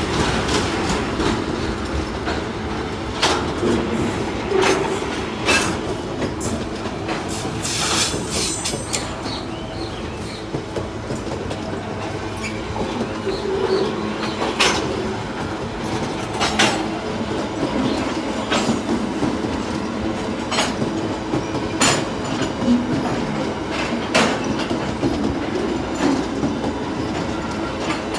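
Freight train wagons rolling past, a steady rumble of steel wheels on rail with sharp clacks every second or two as the wheels cross rail joints, and some wheel squeal.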